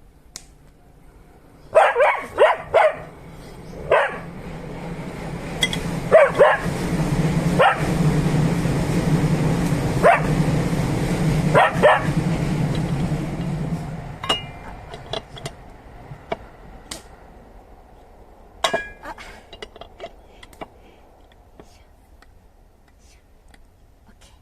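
A dog barking repeatedly, in single barks and short runs, over a low rumble that swells and fades midway.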